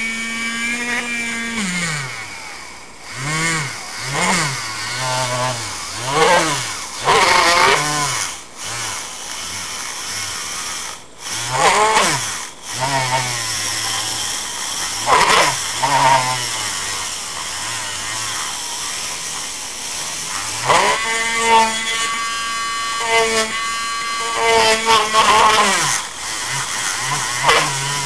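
Small corded power drill boring a hole through a plastic bottle. Its motor whine rises and falls in speed again and again, with a steadier run in the middle.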